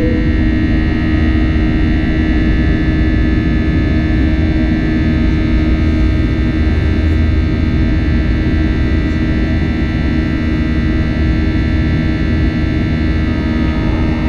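Airbus A320 cabin noise just after takeoff: a steady drone of the jet engines and rushing airflow, with a few constant hum tones over it, heard inside the cabin.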